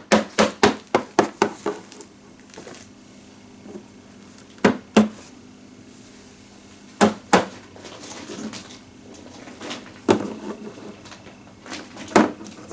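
Hard plastic toy animal figures knocking and tapping on a surface. There is a quick run of taps, about six a second, in the first second and a half, then a few separate knocks, mostly in pairs.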